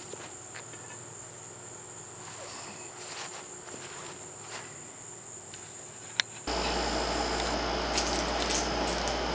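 Crickets trilling steadily in one high tone over quiet outdoor background. About six and a half seconds in, a click is followed by an abrupt change to louder indoor room noise with a low electrical hum.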